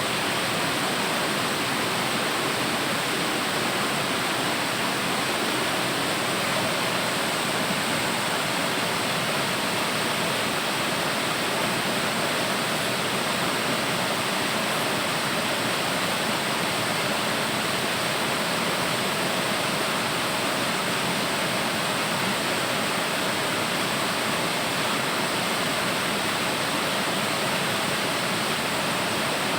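Waterfall: water falling and splashing in an even, steady rush.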